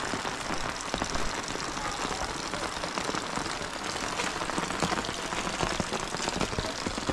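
Steady rain falling, a dense hiss of many small drop impacts on surfaces.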